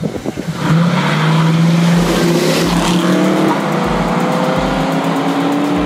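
Two early-1970s Ford Mustangs pull away hard from a standing start, side by side. The engines rev, rising in pitch, drop about three and a half seconds in as at a gear change, and climb again.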